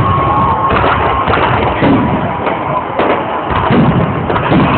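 Fireworks display: a rapid, uneven series of bangs and bursts, with a thin steady whistle in about the first second.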